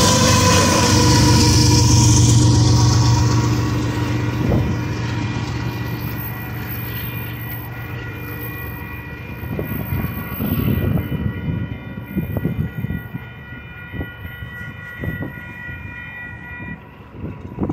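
Union Pacific diesel locomotive passing close at speed, a heavy rumble with a steady whine that fades after a few seconds into the far-off sound of the train. Gusts of wind buffet the microphone, and in the second half a distant locomotive horn sounds one long held chord.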